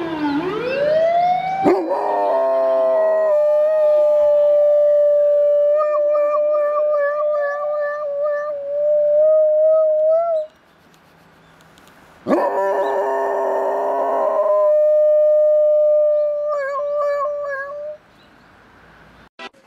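An emergency-vehicle siren wails for the first couple of seconds, then a dog howls in imitation of it: two long, steady, slightly wavering howls with a short pause between them, a faint siren sweeping behind the first.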